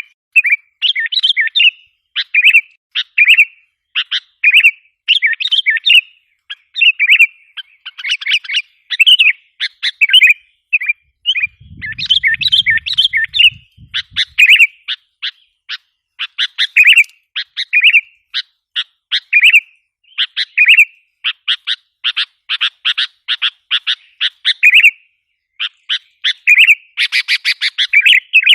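Sooty-headed bulbul calls played as a bird lure: loud, bubbly chirping phrases repeated in quick succession, with a rapid chattering run near the end.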